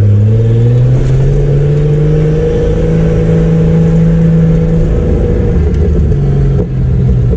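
Chevrolet Opala's turbocharged straight-six engine pulling as the car drives, its pitch rising over the first couple of seconds, holding, then easing back down, with a brief dip near the end.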